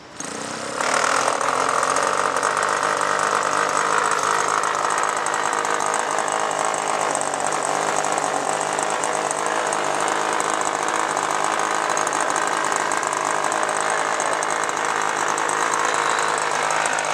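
Small combustion engine of a radio-controlled model aircraft running at high revs: a loud, steady, rasping buzz that comes in suddenly at the start and steps up just under a second in.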